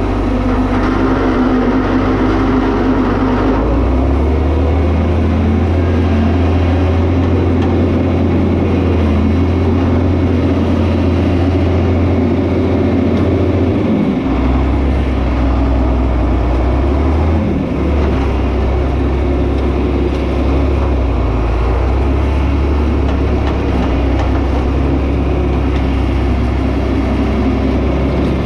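John Deere 4320 tractor's six-cylinder turbo diesel engine running, its low note stepping up and down a few times.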